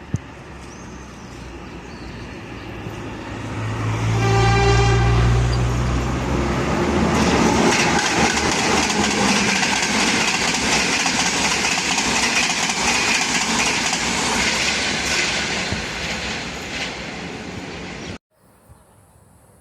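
A train sounds its horn, one blast of about two seconds, then passes close by with loud wheel-and-rail noise that builds and slowly fades. The sound cuts off suddenly near the end.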